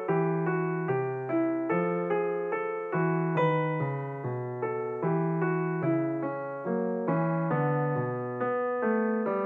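Background piano music: a gentle, even run of notes at about two a second over held low chords.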